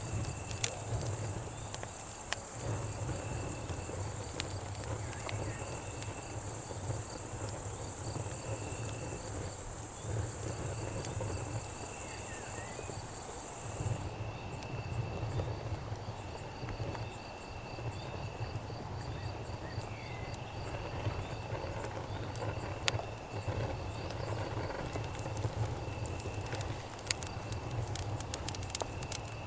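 Summer-night woodland ambience: a loud, high drone of cicadas that cuts off sharply about halfway through, over crickets chirping at a steady rhythm, with a low rumble of distant thunder underneath. Occasional sharp pops and crackles from a campfire come in mostly in the second half.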